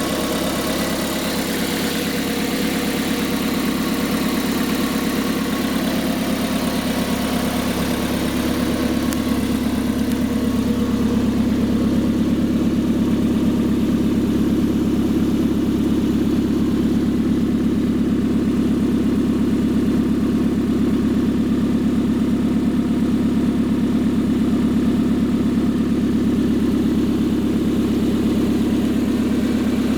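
Car engine idling steadily. About ten seconds in, the higher hiss dies away and the low, even hum grows slightly louder and steadier.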